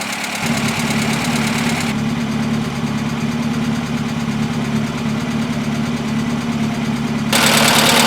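1980 Austin Princess engine idling steadily, a low hum of several tones coming in about half a second in. The higher hiss drops away about two seconds in and returns louder near the end.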